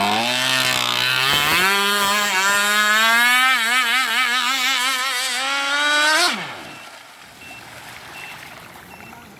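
Zenoah G260PUM two-stroke petrol engine of a radio-controlled boat running at high revs, its pitch climbing and wavering up and down. About six seconds in the note drops away quickly and the sound falls to a faint background.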